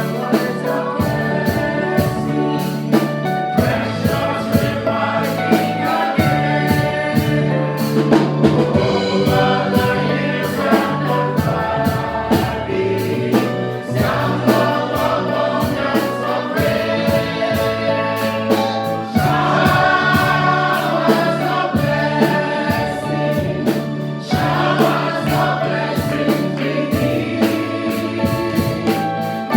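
Gospel praise-and-worship song: a choir singing with a band, drums keeping a steady beat over a bass line.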